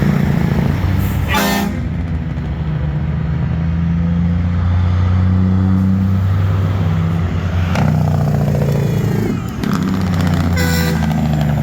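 Diesel semi-truck engines running steadily as trucks roll by, with a short horn blast about a second and a half in and another near the end.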